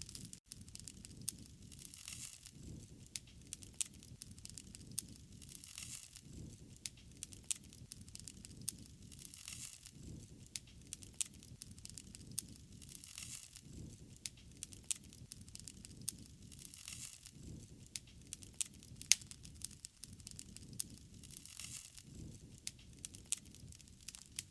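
Wood fire crackling and popping, with many sharp irregular snaps over a low, steady rush of flame that swells every few seconds.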